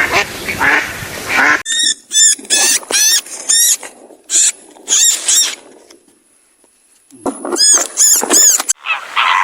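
A duck quacks briefly, then after a cut an animal gives a rapid series of short, high squeaky calls, each rising and falling in pitch. The calls pause about 6 s in and resume about a second later.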